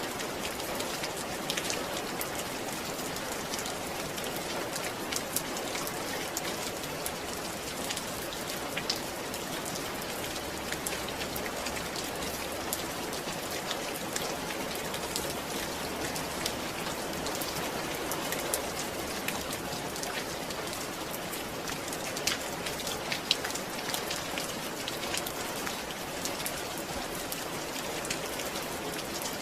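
Steady rain falling on a surface, an even patter with occasional distinct drops standing out.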